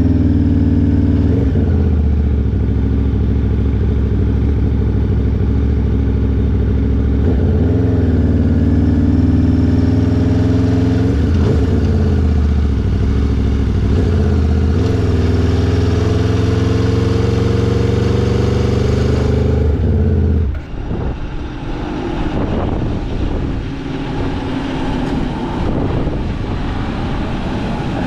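Aprilia RSV4 V4 engine through an SC Project S1 titanium exhaust, heard on board under load: the engine note climbs repeatedly, with short dips between the climbs. About twenty seconds in, the steady note falls away abruptly as the throttle closes, leaving a rougher, quieter engine sound mixed with wind rush.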